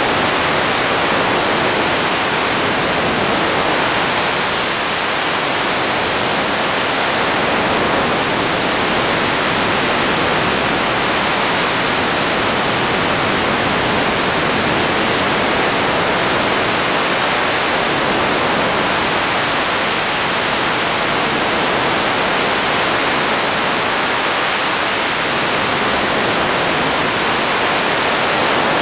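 Radio static: a steady hiss with no tones or voices in it, slowly swelling and easing a little.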